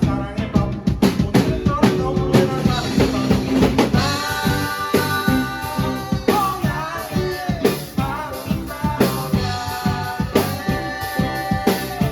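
Rock band playing live: a drum kit keeps a busy beat under bass and sustained melodic lines that come in about four seconds in.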